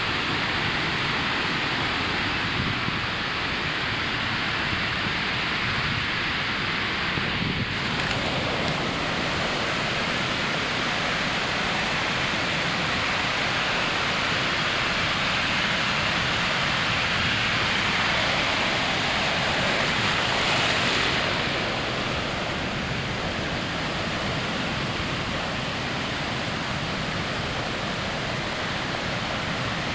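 Ocean surf breaking and washing on a sandy beach, a steady rushing with one wave swelling louder and fading around two-thirds through.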